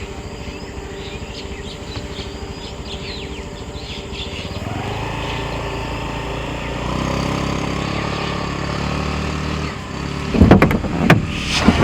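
Birds chirping, then a vehicle engine that rises in pitch and grows louder about four and a half seconds in and holds steady. Near the end come several loud, sharp clattering knocks.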